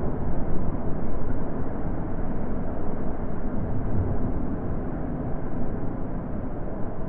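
Wind blowing, a full low rush that rises and falls a little and eases gradually.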